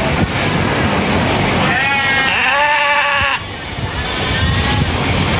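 A sheep bleating: one long wavering bleat about two seconds in, then a fainter, shorter one, over a steady rushing noise.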